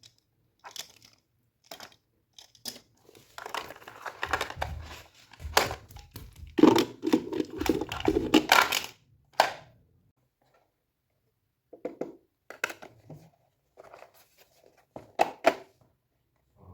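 Toy packaging being unboxed: scattered clicks and taps, then a few seconds of loud crinkling and tearing of the packaging, followed by a few more sparse clicks and rustles near the end.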